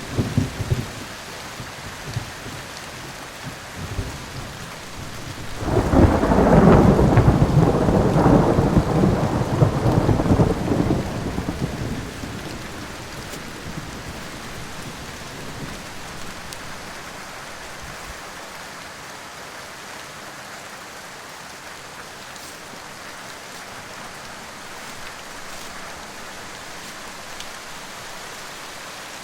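Steady rain with a long roll of thunder beginning about six seconds in, rumbling for several seconds before fading away.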